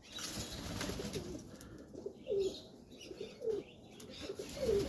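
Domestic pigeons cooing in the loft: short, falling coos, about one every second, in the second half. Before them, a rustling noise in the first second.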